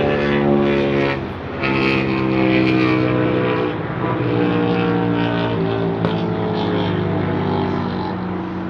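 A loud engine droning steadily, its pitch shifting in small steps a few times.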